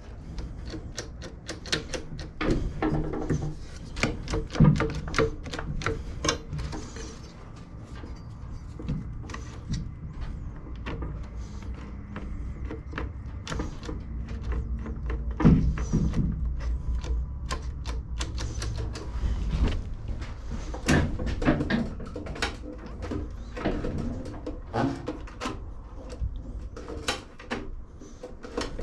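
Irregular clicks, knocks and clatter of hand tools and mower parts being handled in a workshop, with a few heavier knocks, over a low steady hum.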